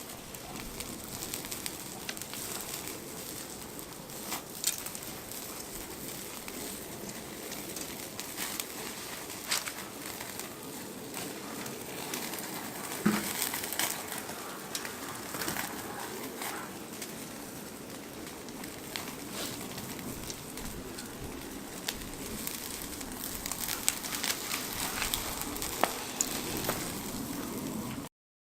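Fire crackling in a Snow Peak Takibidai S fire pit, with steady hiss and irregular small pops, while birds call in the background.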